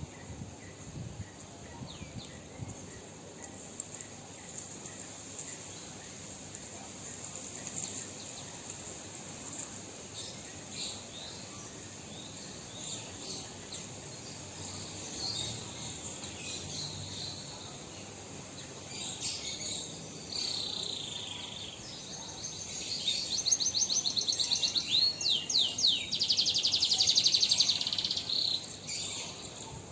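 Caged songbirds chirping, then breaking into a loud, fast trilling song for the last third or so.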